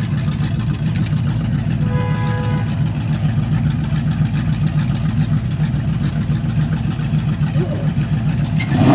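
Car engine idling with a steady low rumble, and a brief flat tone about two seconds in.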